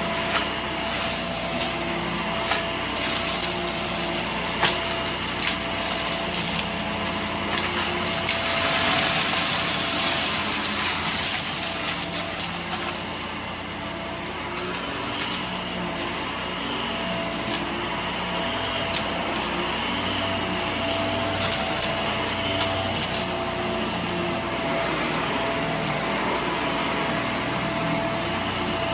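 Vacuum cleaner running steadily with a constant motor whine while picking up scattered debris, with intermittent clicks and rattles as bits are sucked in. The suction noise swells louder for a few seconds about eight seconds in.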